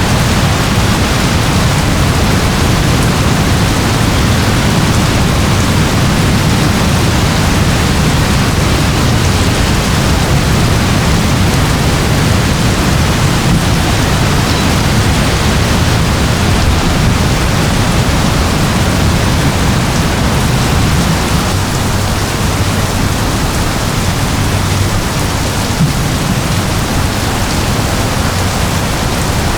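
Steady rain falling: an even, unbroken hiss with a low rumble underneath and no single drops or thunderclaps standing out.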